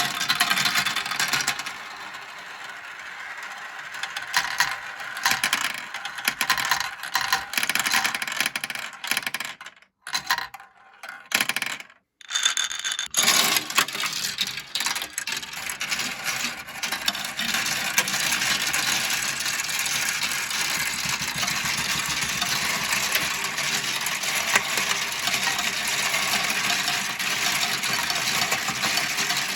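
Many marbles rolling and clattering down a marble run track: a dense, continuous rattle of small clicks and knocks, broken by two short silences about ten and twelve seconds in.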